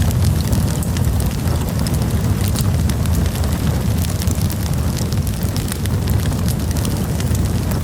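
Campfire burning, with frequent sharp crackles and pops from the wood over a steady low rumble of the flames.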